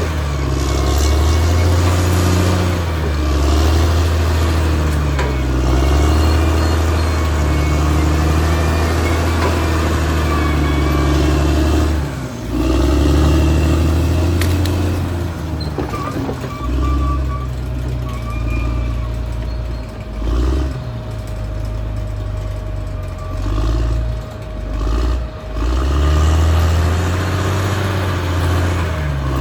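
Caterpillar D6R XL bulldozer's diesel engine working under changing load, its pitch rising and falling. For about ten seconds in the second half the engine eases off and comes back in short surges, with a few brief squeaks over it.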